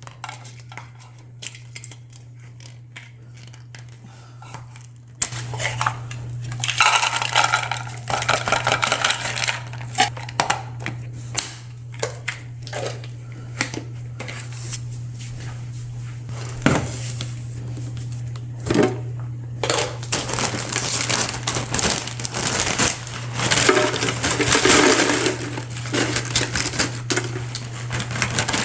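Groceries being unpacked and put away: plastic and paper packaging crinkling and rustling, with frequent clicks and knocks of items and containers being handled and set down.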